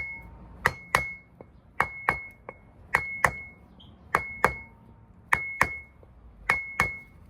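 Hammer blows through a wooden block, driving a part home on a wheel hub: six pairs of sharp knocks, about a pair a second, the first knock of each pair ringing briefly with a metallic tone.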